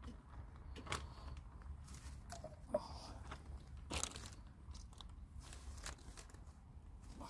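Packaging handled during marinade making: scattered crinkling and rustling with a few sharp clicks, the loudest about three seconds in, over a steady low rumble.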